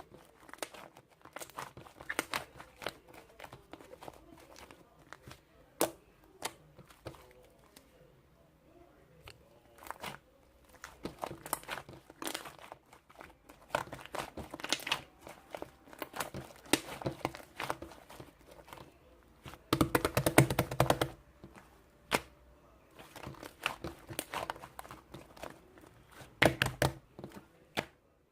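Irregular close-up clicks, taps and crinkling of small objects being handled, with a dense, louder rattling flurry about two-thirds of the way through.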